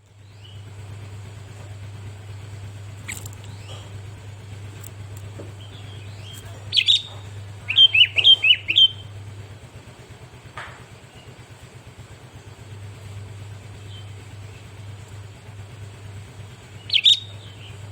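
Sooty-headed bulbul (kutilang) calling in short bursts: a quick double call about seven seconds in, a rapid run of loud chirping notes a second later, and another brief call near the end. A steady low hum runs underneath.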